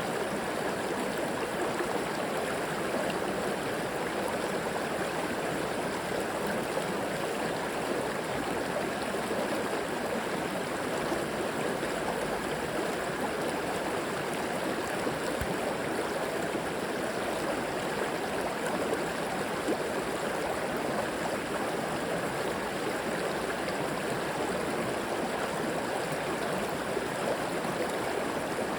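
River water flowing and gurgling over rocks, a steady even rush.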